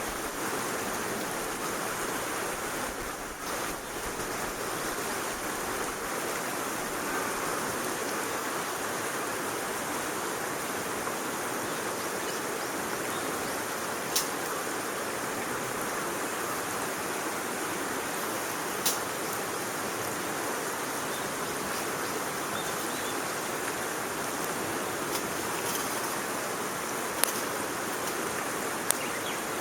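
Wood fire burning in a small backpacking wood stove: a steady rushing sound with four sharp crackles scattered through it.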